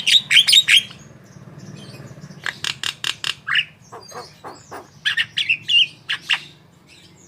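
Javan myna (jalak kebo) singing in three bursts of rapid, sharp chattering notes: one at the start, one about two and a half seconds in, and one about five seconds in.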